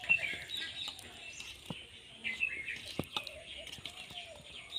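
Birds chirping in quick, repeated phrases, with a few short sharp knocks.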